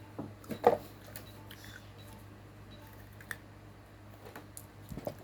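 Close-up eating sounds of a crunchy dried fruit snack: a few short crunches and mouth clicks, the loudest about two thirds of a second in, over a faint steady hum.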